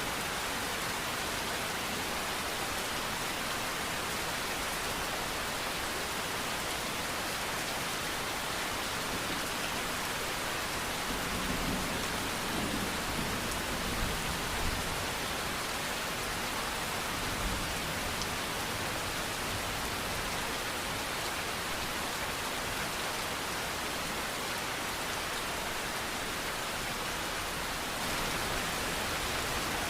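Steady rain falling, an even hiss. A low rumble swells in for several seconds about a third of the way in, with a few soft peaks, then fades back into the rain.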